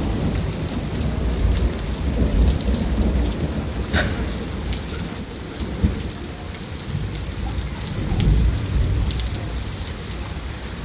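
Steady rain falling, with low rolling thunder underneath that swells again about eight seconds in.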